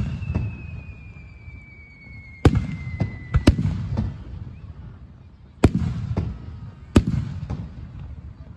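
Aerial fireworks shells bursting overhead: four loud booms and one smaller one, each trailing off in a low rumbling echo.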